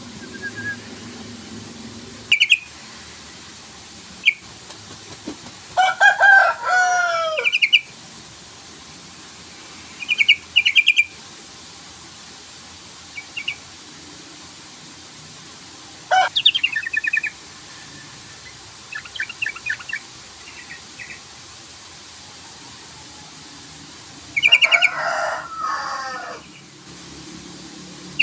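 Yellow-vented bulbul (trucukan) calling: a series of short, bubbling chattering phrases separated by pauses of a few seconds. The longest phrases come about six seconds in and again near the end.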